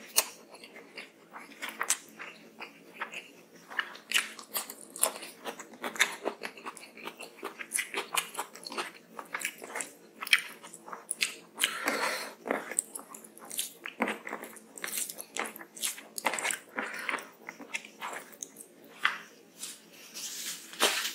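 Close-miked chewing of a mouthful of rice and curry, with many quick wet mouth clicks and smacks. Fingers squish and mix the rice on the tray between mouthfuls.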